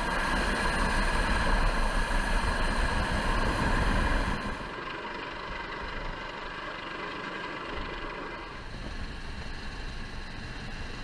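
Steady engine noise, louder for the first four seconds or so, then dropping abruptly to a quieter, steady hum.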